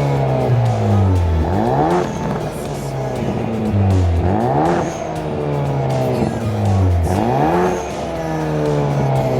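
Hyundai Veloster N's turbocharged 2.0-litre four-cylinder revved three times through a straight-piped mid-pipe and titanium N1-type cannon muffler. Each rev climbs quickly, then winds slowly back down.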